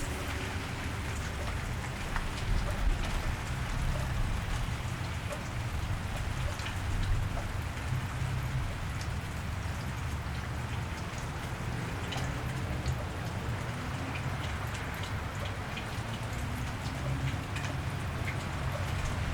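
Steady rain falling on a wet street, with many scattered sharp drop ticks over an even hiss and a low rumble of light traffic underneath.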